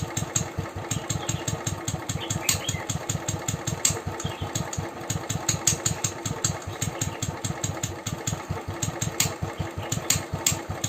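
Royal Enfield motorcycle engine idling with an even, low beat and sharp ticks over it: the tik-tik-tik noise the owner is pointing out on this 2019 BSIV model.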